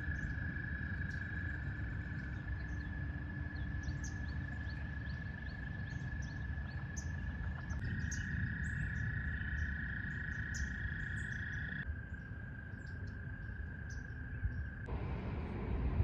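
Outdoor spring ambience: many small birds chirping, over a steady high-pitched trill and a low rumble. The mix changes abruptly a few times, like cuts between recordings.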